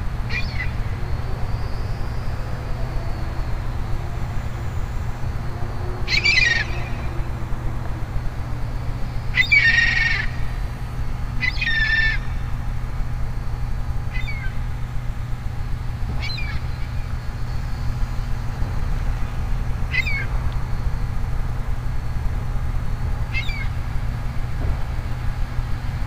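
A bird giving repeated short, sharp calls, each a quick downward sweep, about eight in all at irregular gaps, two of them much louder than the rest. A steady low rumble runs underneath.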